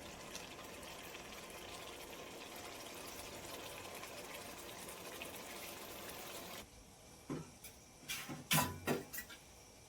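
A pot of curry boiling and bubbling steadily, which cuts off abruptly about two-thirds of the way in. A few sharp knocks follow near the end, the loudest sounds here.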